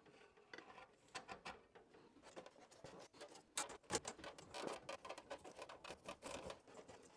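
Faint handling noises from work on the heater installation: irregular small clicks, taps and rubbing, a few sharper ticks in the middle.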